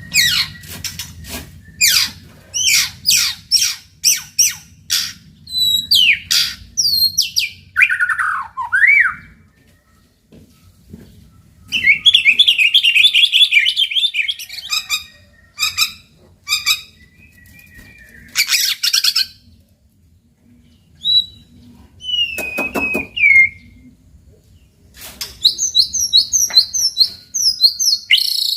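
White-rumped shama singing a loud, varied song: sharp whistled strokes, falling whistles, a fast trill about twelve seconds in, and quick repeated notes near the end, with short pauses between phrases.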